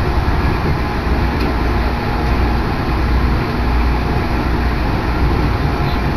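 Electric train running at speed: a steady rumble and rush of noise, with wind buffeting the microphone.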